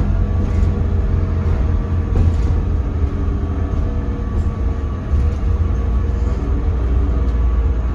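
Scania K320CB bus underway, heard from inside the cabin: its Scania DC9 five-cylinder diesel engine and driveline make a steady, deep drone with road rumble.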